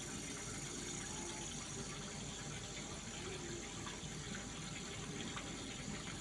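Steady running water over a constant low machine hum.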